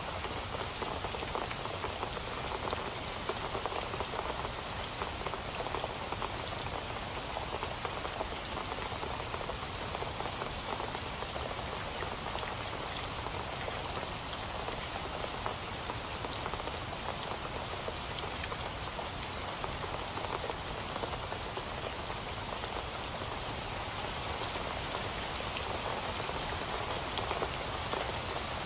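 Steady rain falling, a continuous hiss made up of many small drop ticks, with no thunder.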